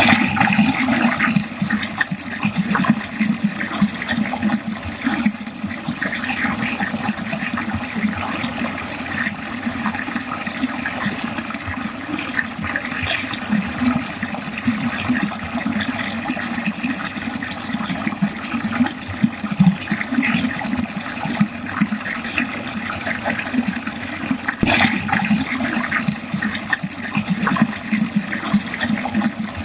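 Water pouring and gurgling steadily down a drain, with a churning, fluttering flow and one sharp click about 25 seconds in.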